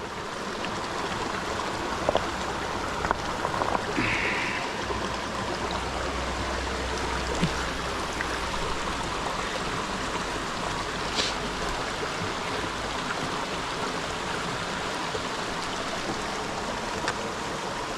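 A creek's water running steadily, with a few light knocks about two to four seconds in.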